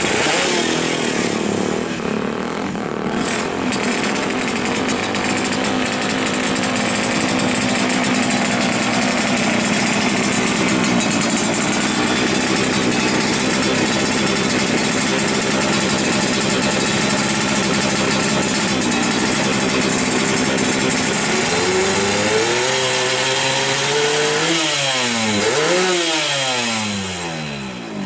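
Yamaha RX-King two-stroke single-cylinder engine, fitted with a lightened flywheel magneto, running at a steady speed, then revved up and down several times near the end.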